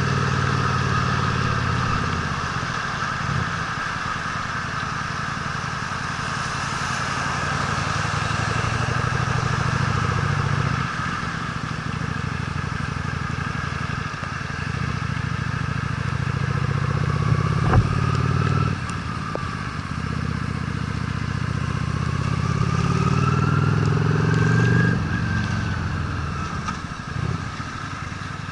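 Honda Steed V-twin motorcycle engine running under way, its note rising and falling with the throttle, with a steady hiss over it. It dips briefly twice, there is a sharp click about 18 seconds in, and it rises with acceleration a few seconds before the end.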